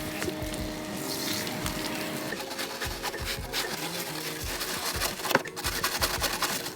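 Hands scrubbing and wiping in a car's engine bay: irregular rubbing, scraping and clicking, with a steady hum that stops a couple of seconds in.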